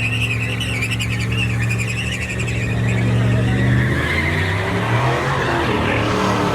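Truck doing a burnout: engine held at high revs in a steady note while the spinning tires squeal and hiss against the pavement, the high wavering squeal strongest in the first few seconds.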